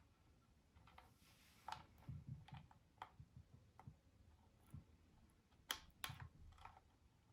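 Faint, irregular clicks and light taps of small hard objects, with two sharper clicks close together about two-thirds of the way through.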